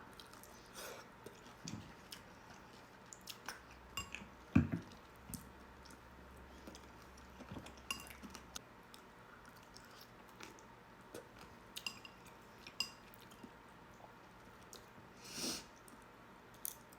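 Quiet eating sounds: a spoon clinking against a bowl and soft chewing of mini wontons. There is one louder knock about four and a half seconds in, and a brief louder rustle near the end.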